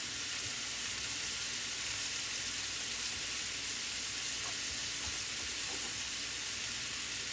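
Chicken pieces frying in olive oil in a pan: a steady sizzle, with a few faint knocks.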